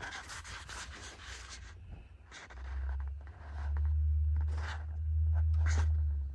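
Rustling and scraping handling noises, with a few sharper scrapes, over a low rumble that builds about two and a half seconds in and cuts off suddenly at the end.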